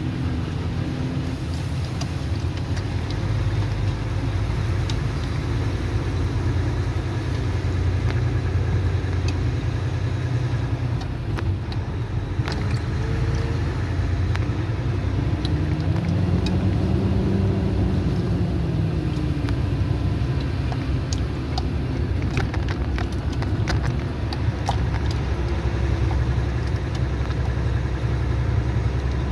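Road vehicle's engine running steadily while driving, with a low rumble and scattered small rattles. About halfway through, the engine pitch rises and then falls back.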